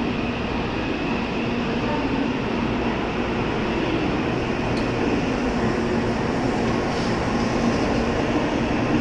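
N700-series Shinkansen train pulling away from the platform. Its running noise grows slightly louder as it gathers speed.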